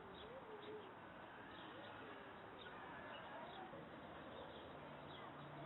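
Faint crowd ambience at a roadside: distant voices murmuring, with a few short high chirps that may be birds.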